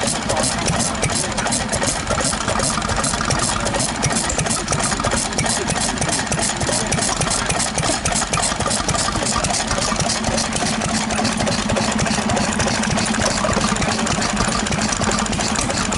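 Vintage stationary engines running at idle with a quick, even exhaust beat; a steady low hum joins in about ten seconds in.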